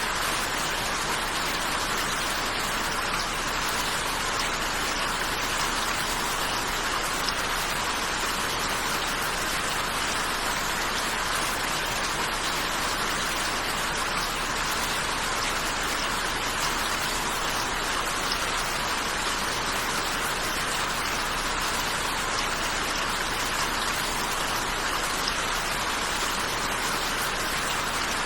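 Steady rain falling, an even hiss of many drops that stays level throughout.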